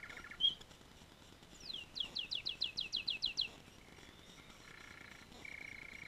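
Canary singing: a short chirp, then a fast trill of about a dozen quick downward-sweeping whistled notes, the loudest part, followed by a softer, lower trill near the end.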